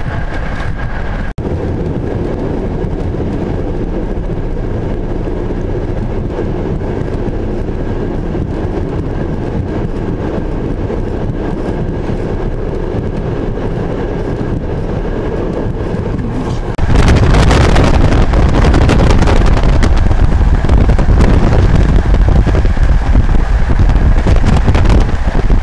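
Steady rumble and rush of a moving passenger train, heard from inside the carriage. About 17 seconds in, it gives way abruptly to much louder, gusting wind noise on the microphone.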